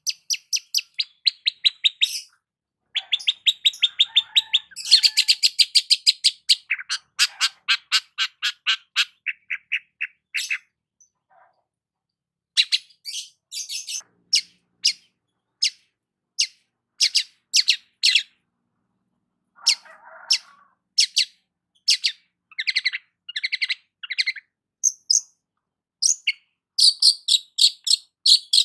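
Long-tailed shrike (cendet) singing: fast trains of sharp, high chirps, many a second, in phrases broken by short pauses.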